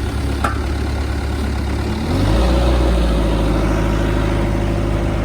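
TCM diesel forklift engine running, with a light click about half a second in. About two seconds in the engine speeds up and holds at the higher speed, as it does when the hydraulics raise the mast.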